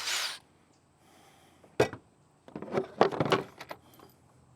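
Hand work on the kayak's drilled aluminium crossbar: a short brushing hiss at the start, then a sharp click and a cluster of clicks and knocks from tools and hardware being handled.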